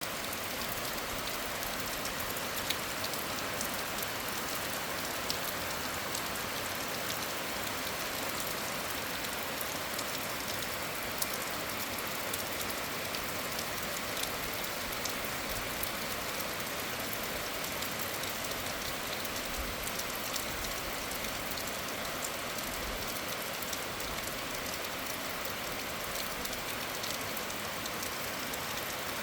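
Steady rain falling, a constant hiss with scattered sharper drop ticks.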